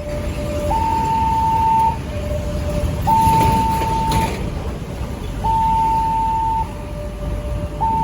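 Railway level-crossing warning alarm sounding a shrill two-tone electronic signal, alternating a higher and a lower tone about once a second, the higher tone louder, warning that a train is approaching. Low traffic rumble runs underneath.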